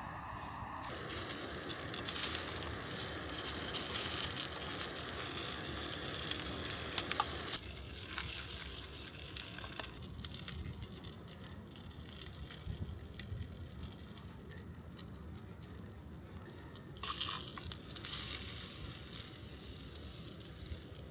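Hotdog sausages sizzling as they cook, a steady frying hiss that changes abruptly a few times.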